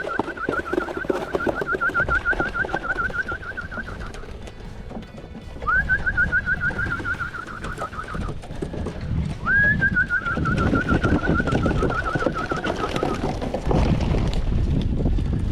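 Racing pigeons in the loft, with cooing and wing flutter, while a high warbling call sounds in three long phrases, each a few seconds long and slowly falling in pitch.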